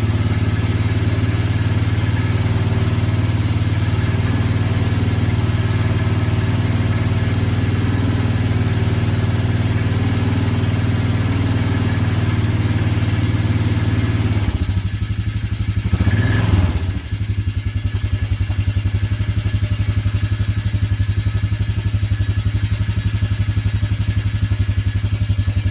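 Vehicle engine idling steadily while still cold. About halfway through, the sound changes briefly with a short rise and fall in pitch, then settles back to an even idle.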